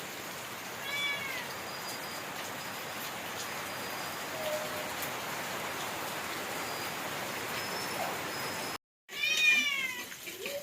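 A cat meowing twice, a short falling meow about a second in and a louder one near the end, over a steady background hiss.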